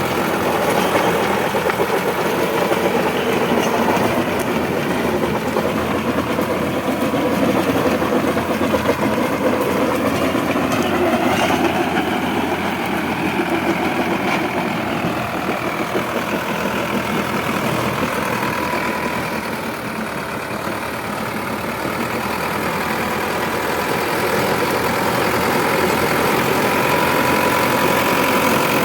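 Sonalika DI 750 tractor's diesel engine running steadily, easing off briefly about two-thirds of the way through, then picking up again.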